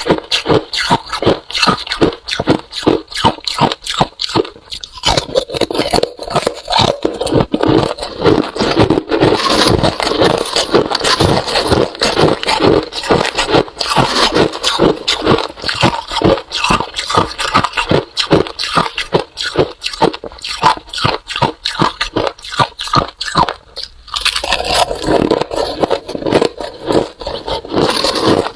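Freezer frost (white ice) being bitten and chewed: a dense, continuous run of crisp crunches, several a second, with short lulls about five seconds in and again a few seconds before the end.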